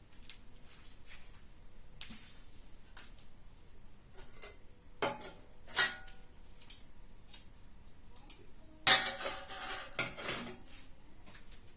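Metal cookware clinking and clanking: light scattered knocks, two louder ringing clanks about five and six seconds in, and the loudest clatter of metal on metal about nine seconds in.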